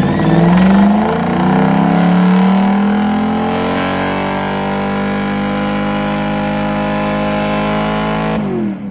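Car engine held at high revs during a burnout: the pitch climbs over the first couple of seconds, stays steady and loud, then drops sharply as the throttle is released near the end.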